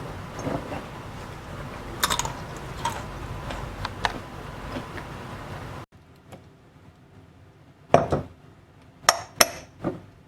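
Light clinks and knocks of dishes and utensils being handled, over a low steady hum; after a cut about six seconds in, the hum stops and a few sharp clicks follow.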